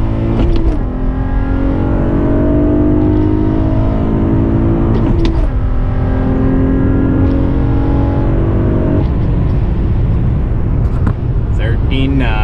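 Acura TL SH-AWD's 3.7-litre V6 accelerating through the gears of its six-speed manual, heard from inside the cabin. The engine note climbs steadily, drops with a quick upshift about half a second in and again about five seconds in, then falls away as the throttle lifts about nine seconds in.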